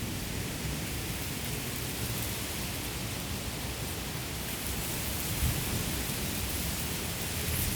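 Wind blowing across a field of ripe rice: a steady rustling hiss from the stalks, with low gusty rumbling of wind on the microphone that grows near the end.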